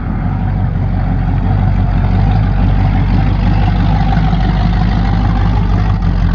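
Car engine running steadily with a deep, even rumble, slightly louder about a second in.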